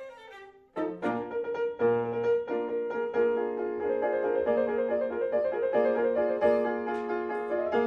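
Piano music from a silent-film score, starting about a second in after a falling phrase fades out, then running on in a steady stream of notes.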